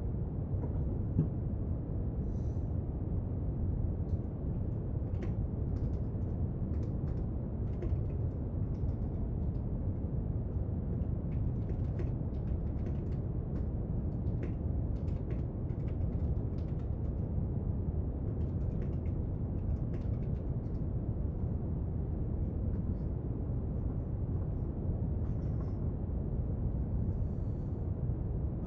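Steady low brown noise, with faint, irregular small clicks and taps of someone working at a desk.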